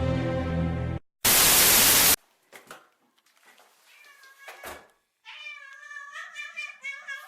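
A burst of loud hiss lasting about a second, then faint clicks, then a domestic cat meowing in a run of wavering calls over the last two seconds.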